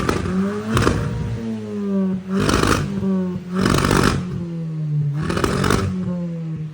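An engine running at fairly steady revs, with a steady pitched hum and broad rushing surges about every one and a half seconds.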